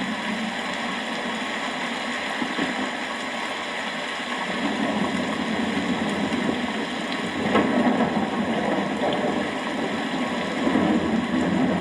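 Steady heavy rain, with low rolling thunder swelling in about halfway through and rumbling louder twice towards the end.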